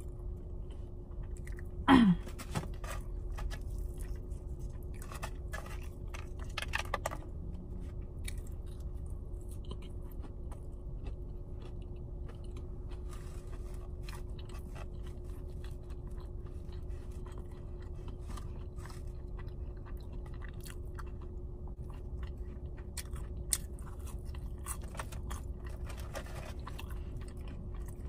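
A person chewing and biting fried fast food close to the microphone, with many small crunchy and wet mouth clicks. A brief sound of her voice, falling in pitch, about two seconds in is the loudest moment.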